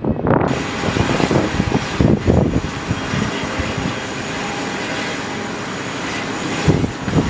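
An airliner's engines running: a steady rushing noise with a thin high whine on top, and gusty low surges around two seconds in and again near the end.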